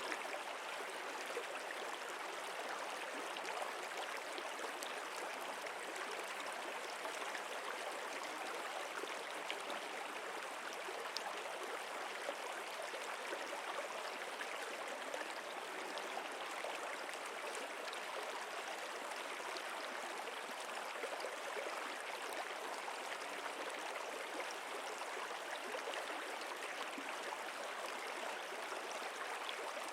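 A stream flowing steadily, a continuous even rush of water.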